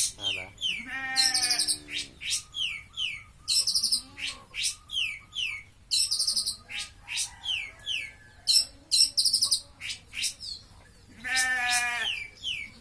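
Long-tailed shrike singing a fast, unbroken string of sharp high chirps and trills. A goat bleats twice, about a second in and again near the end.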